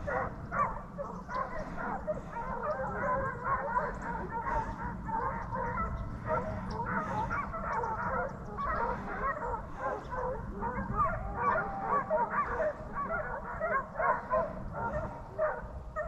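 A pack of deer hounds baying in full cry while running a deer, many overlapping voices calling continuously, over a steady low rumble.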